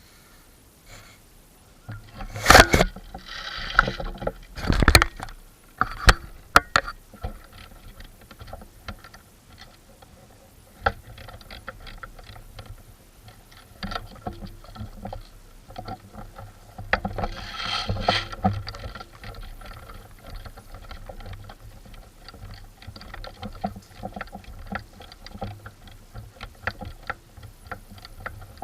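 Rustling and crunching of a player moving through forest undergrowth, swelling twice. Several sharp snaps or clicks, the loudest a few seconds in.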